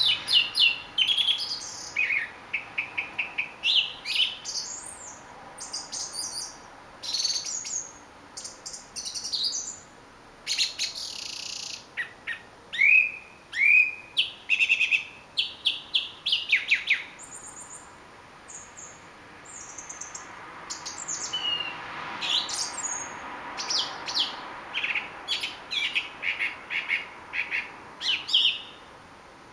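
A thrush singing a long run of varied phrases of clear whistles and chirps. Many phrases are repeated several times in quick succession, with short pauses between them.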